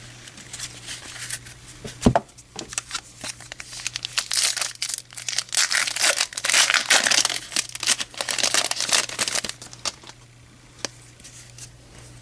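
A foil baseball-card pack wrapper being torn open and crinkled, with a sharp thump about two seconds in and the crinkling loudest through the middle.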